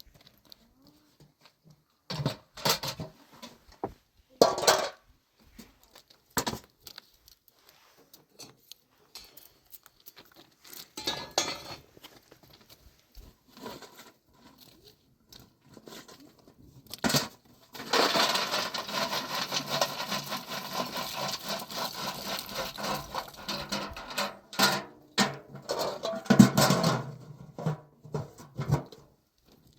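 Scattered clatters and knocks of household items such as dishes and utensils being handled, then several seconds of steady rushing, rustling noise near the middle, with more clatters after it.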